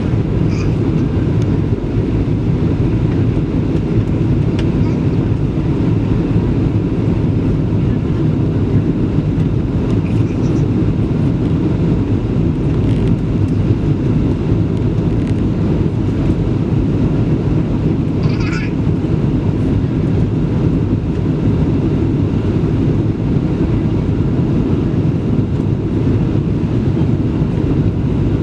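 Steady low rumble of cabin noise inside a Boeing 737-700 airliner, from its CFM56-7B engines and the airflow around the fuselage, holding even throughout.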